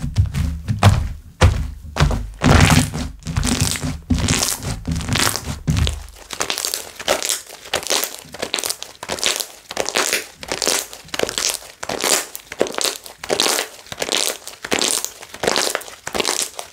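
Hands pressing, poking and stretching slime: a quick run of crackling, popping squishes, several a second, as air bubbles in the slime burst. Deep thuds sound under them for about the first six seconds, then stop.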